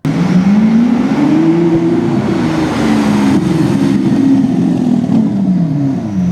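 A car engine revving under acceleration, starting abruptly. Its pitch climbs over about two seconds, wavers, then falls away near the end.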